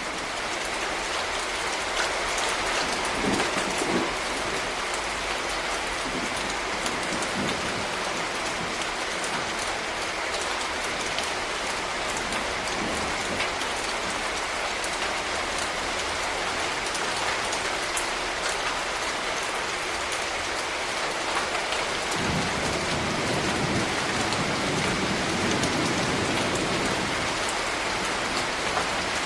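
Steady rain falling on a street, with fine patter of individual drops. A low rumble comes in about three quarters of the way through and carries on under the rain.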